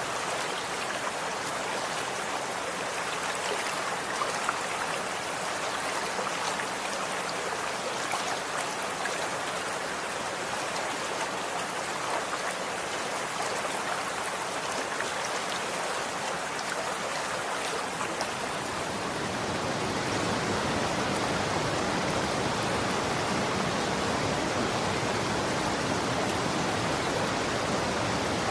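Running water flowing and splashing steadily, with small droplet ticks. About two-thirds of the way through it becomes fuller and slightly louder, with a deeper rush added.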